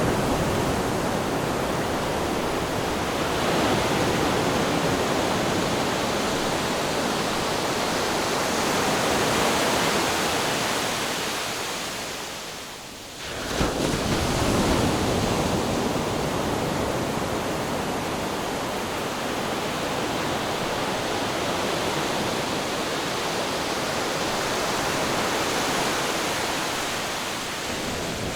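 Ocean waves washing in a steady surf. Near the middle the sound fades down briefly, then comes back abruptly.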